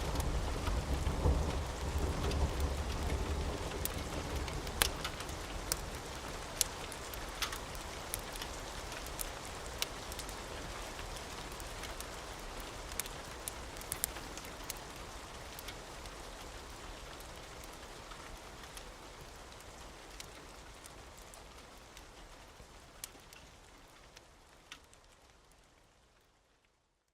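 Steady rain with sharp crackles and pops from a wood fire scattered through it. The sound fades out gradually and ends in silence.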